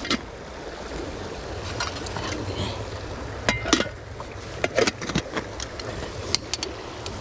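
Camp cookware and utensils clinking and knocking as they are handled, in scattered sharp clicks with a cluster about three and a half seconds in and another near five seconds.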